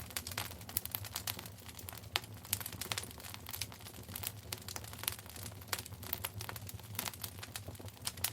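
Wood fire burning in a fireplace, crackling with many small irregular pops and snaps over a steady low rumble.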